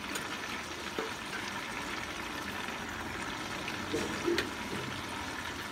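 Chicken feet, onion and tomato frying in oil in a pot, a steady sizzling hiss, with a couple of light taps.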